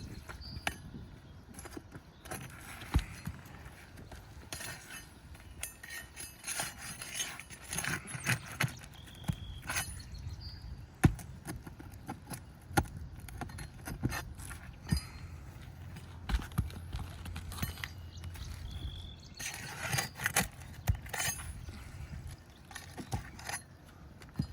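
Scattered sharp metal clinks and taps with some scraping, made by a metal tool worked under asphalt shingles to release their roofing nails.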